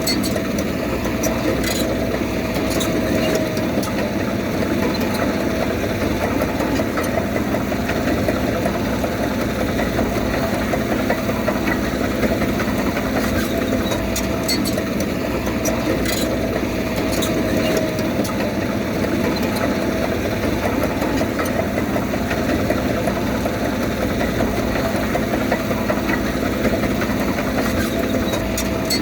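Diesel engine of heavy earthmoving machinery running steadily, with a few scattered light clanks.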